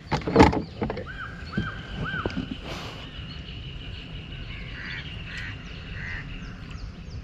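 Outdoor waterside ambience with birds calling: three short arching whistled notes in the first two seconds, a long steady high note through the middle, and scattered faint chirps. A brief loud knock or splash right at the start is the loudest thing.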